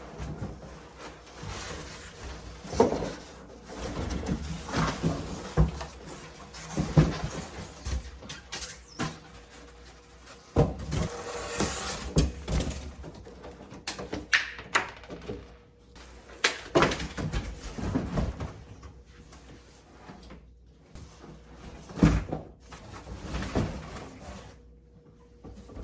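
Irregular knocks, clicks and rustles of objects being handled, with a brief noisy stretch a little before halfway.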